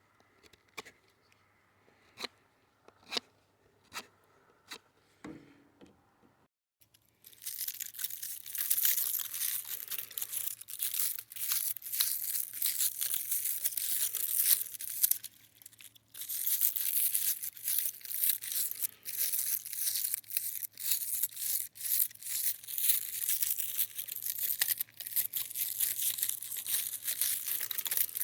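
A series of sharp taps, about one a second, then from about seven seconds in a continuous dry crinkling and crackling, as of something being crumpled or torn, with a short break about halfway through.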